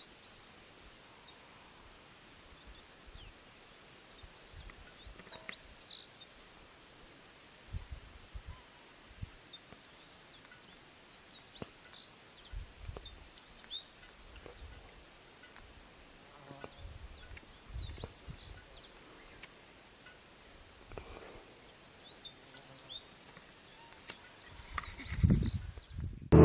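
Outdoor ambience: small birds give short, high chirps every second or two over a steady faint hiss, with a few soft low thumps.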